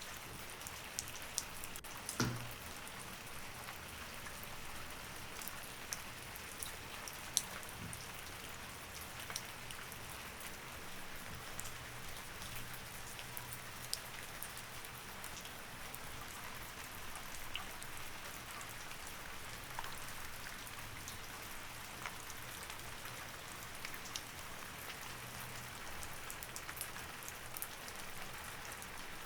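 Steady rain falling, an even hiss with scattered louder drops landing close by; one heavier drop stands out about two seconds in.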